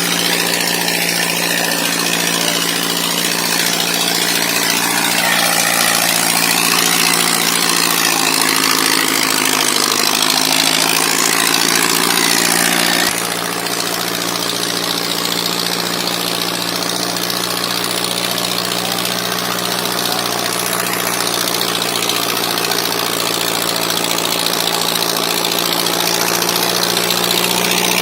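Farmtrac 6055 tractor's diesel engine running steadily at a constant pitch, with a sudden slight drop in loudness about halfway through.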